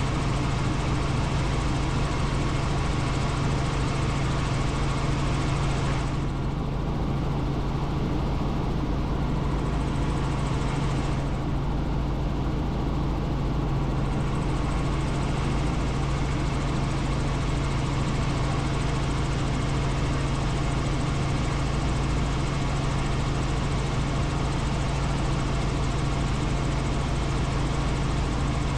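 Helicopter in flight: a steady drone of engine and rotor with a constant low hum and rushing noise over it. The high hiss dulls for several seconds about six seconds in.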